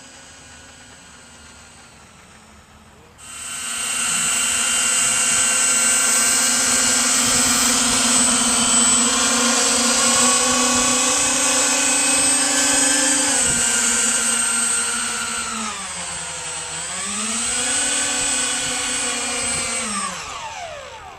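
Radio-controlled model Airbus A380's engines whining at high power, cutting in suddenly about three seconds in. Near the end the whine drops in pitch, rises briefly, then winds down as the engines are throttled back.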